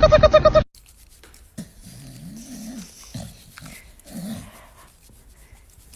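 Music that cuts off abruptly under a second in, then a dog making several short, low growls spread over the next few seconds.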